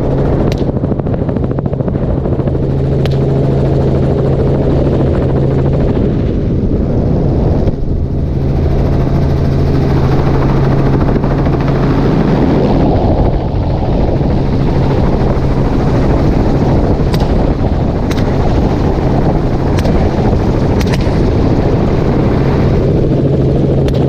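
Helicopter running steadily in flight, its rotor and engine giving a constant loud drone with a low hum, broken by several sharp cracks of rifle fire, a couple near the start and more in the second half.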